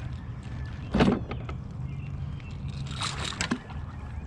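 A hooked bass splashing at the surface as it is drawn in to be landed: two short splashes, about a second in and again about three seconds in, over a steady low rumble of wind or water.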